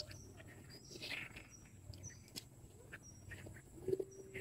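Faint birds chirping, short high calls recurring about every second, with a brief lower call about four seconds in.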